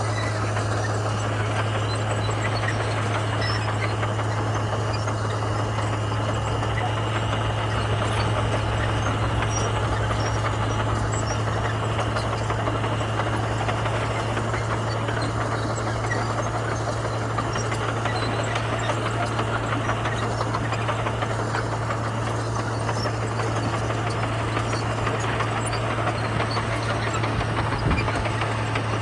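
Komatsu bulldozer's diesel engine running steadily with a deep, even hum, and a single brief knock near the end.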